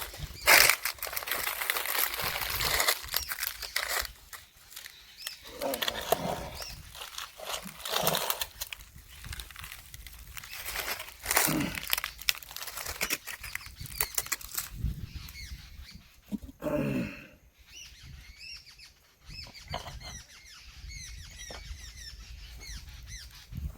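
Irregular rustling and clattering handling noises, with birds chirping faintly in the second half.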